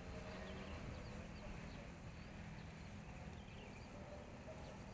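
Faint outdoor ambience: scattered small bird chirps over a low steady hum.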